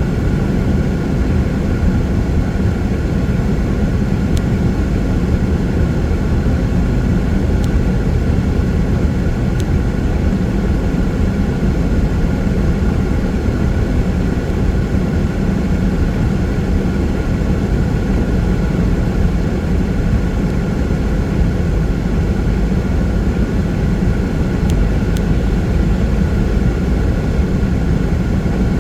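Steady drone of a car driving on a wet freeway, engine and tyre noise on rain-soaked pavement without let-up, with a few faint ticks.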